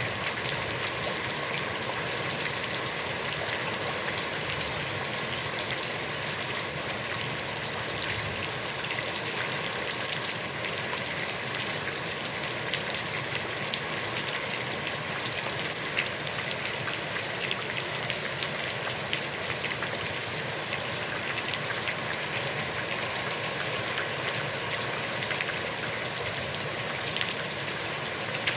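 Heavy rain falling steadily onto a pond's water, a dense even hiss of many fine drop patters with no let-up.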